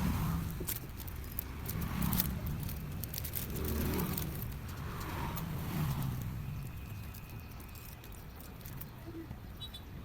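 Low rumble of passing road traffic, swelling and fading every couple of seconds, with scattered light clicks.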